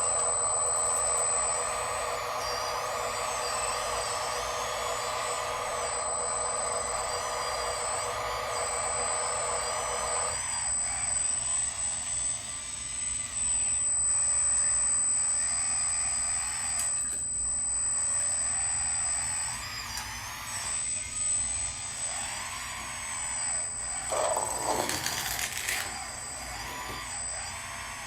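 Radio-controlled construction models running: small electric motors and gearboxes whining up and down as they move. A steady multi-tone hum stops about ten seconds in, and there is a louder, harsher burst a few seconds before the end.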